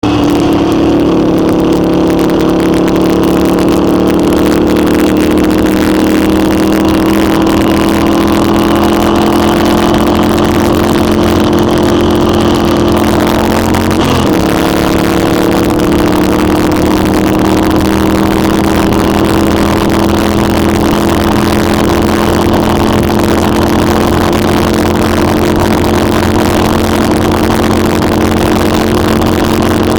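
Motorcycle engine running steadily at cruising speed on a highway, with a brief dip and recovery in engine pitch about halfway through.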